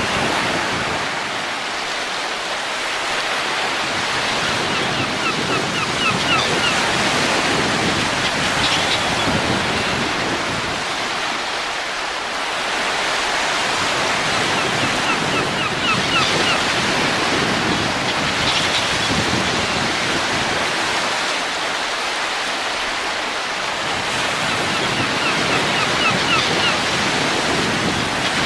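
Steady rushing wind noise that swells and eases every ten seconds or so, with a few faint high chirps now and then.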